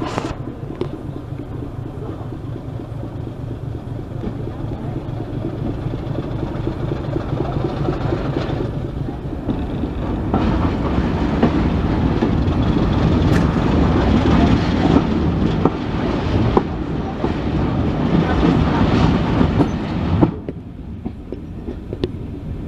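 A train running along the track, a steady rumble with rail noise that grows louder through the middle and drops away sharply near the end.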